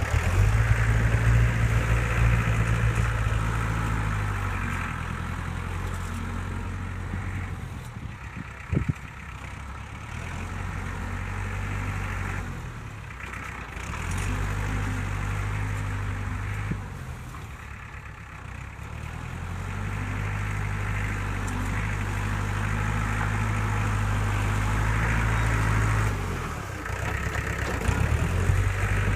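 Heavy diesel engine of earthmoving machinery working, its note dropping and picking up again several times, with one sharp knock about nine seconds in.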